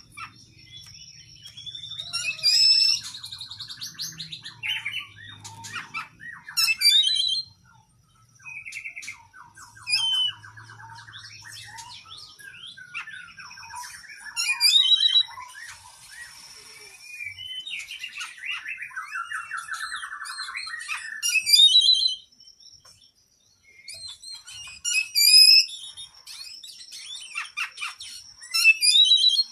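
Oriental magpie-robin (kacer) singing a long, varied song: quick high chirps and whistled phrases broken by rattling trills, with short pauses between phrases. A thin steady high tone sounds behind it near the start and again near the end.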